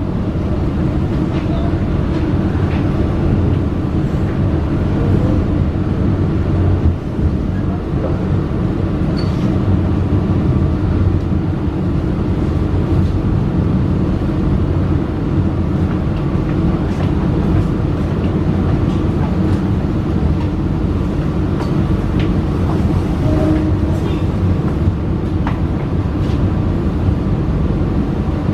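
Passenger train running on the rails, heard from aboard a mild-steel economy-class carriage: a steady, loud rumble with a few faint clicks scattered through it.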